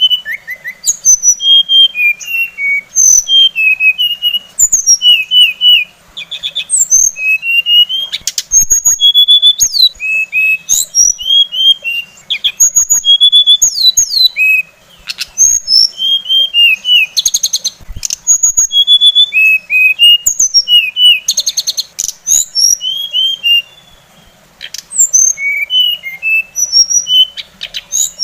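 Songbird singing a rapid, varied song of clear whistled notes, slurs and chirps in quick phrases, broken by short pauses and a few brief buzzy rattles: masteran birdsong recorded for training captive songbirds.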